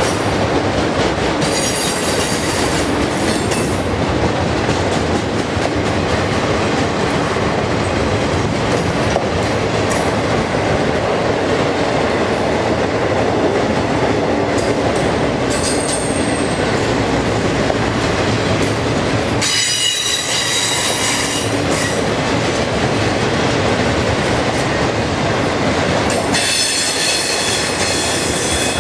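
Union Pacific double-stack container cars rolling past, a steady loud rumble of steel wheels on rail with some clicking over the joints. High-pitched wheel squeal rises over it three times: about two seconds in, around twenty seconds in, and near the end.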